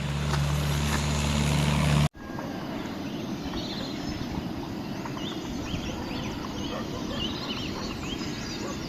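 A steady low hum for about two seconds that cuts off abruptly, followed by many short bird chirps repeating over a light outdoor background rush.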